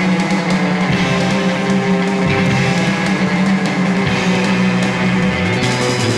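Background music: an instrumental rock track with guitar and drum kit.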